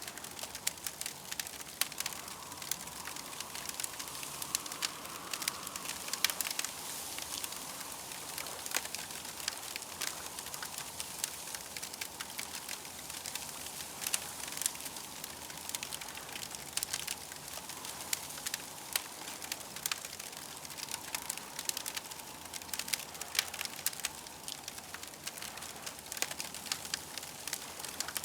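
Campfire crackling: frequent irregular pops and snaps over a steady hiss.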